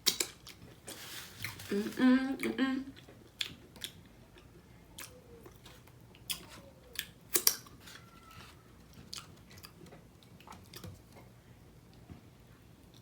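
Close-miked chewing and biting of a homemade ground-turkey burrito: wet mouth clicks and smacks, scattered irregularly, with a brief vocal sound about two seconds in.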